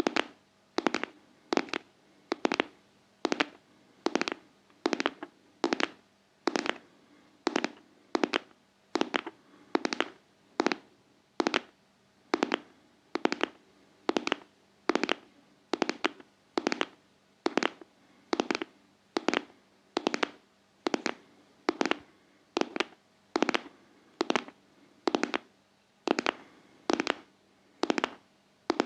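ASMR tapping in a steady double-stroke rhythm like a heartbeat: sharp taps in pairs, one pair a little more often than once a second, with no pause.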